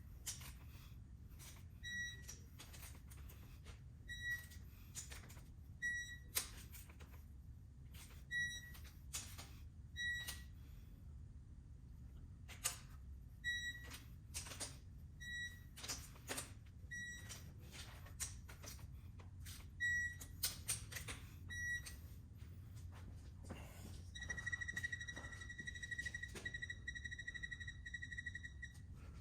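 Short electronic beeps every second or two, mixed with scattered sharp clicks and knocks of hand tools on metal. Near the end a single steady beep sounds for about four seconds.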